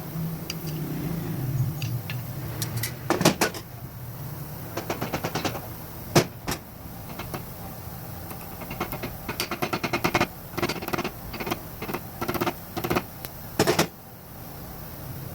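Hand tools working on metal: short runs of rapid clicking and rattling, with a few sharp knocks, coming every few seconds.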